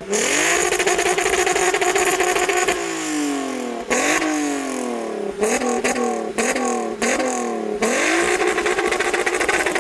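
Car engine revved hard while stationary. It climbs quickly and holds high revs for about three seconds, then drops back. A series of short, sharp throttle blips follows, and it rises again to a held high rev near the end.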